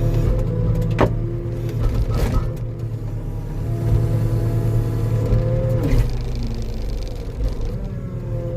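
Diesel engine of a compact earthmoving machine running steadily, with a hydraulic whine above it that dips and bends in pitch a few times. Two sharp knocks come about one and two seconds in.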